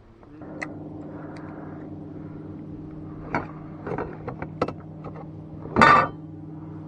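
A car engine running with a steady low hum, set in about a third of a second in. Several short knocks and clunks sound over it, with a louder burst just before the end.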